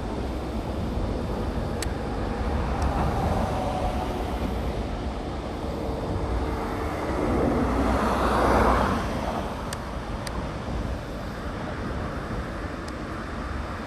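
Steady road traffic noise, with one vehicle passing and loudest about eight and a half seconds in.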